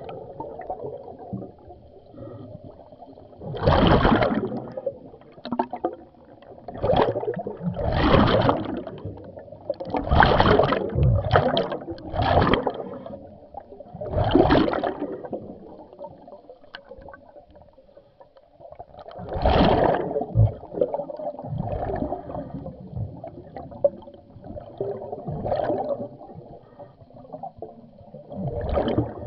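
Scuba diver's regulator exhaust: bursts of exhaled bubbles gurgling out every few seconds, heard underwater, with quieter bubbling between breaths.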